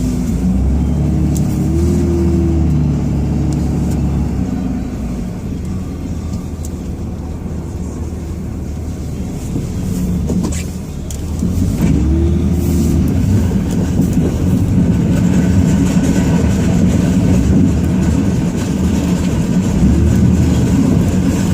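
Ram 2500's Cummins inline-six turbo diesel running under load while plowing. It revs up and eases off several times as the truck moves. A single sharp click comes about ten seconds in.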